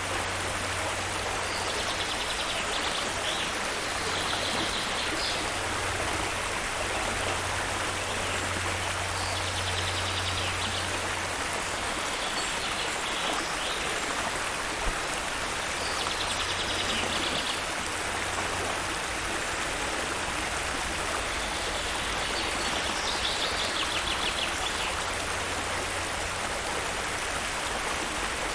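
Stream water flowing with a steady rush. A songbird sings short, rapid high trills every few seconds.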